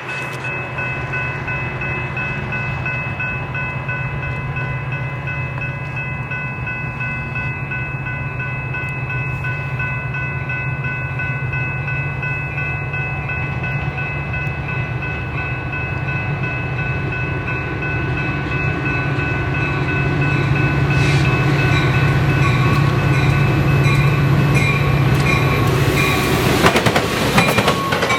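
A train passing: a diesel locomotive's low engine drone under a steady chord of high tones held almost throughout. It grows louder in the last several seconds, then drops off sharply just before the end.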